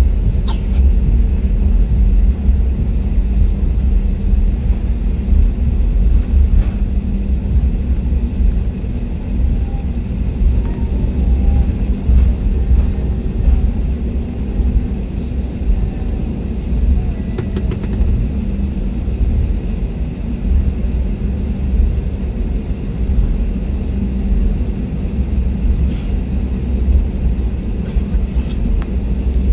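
Steady, loud low rumble of a jet airliner's engines and airflow, heard from inside the passenger cabin in flight, with a faint steady hum over it.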